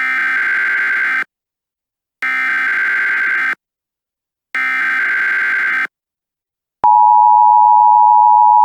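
Emergency Alert System broadcast opening: three harsh, buzzy data bursts of the SAME header, each a little over a second long with about a second between them, then about seven seconds in the loud, steady two-tone EAS attention signal starts.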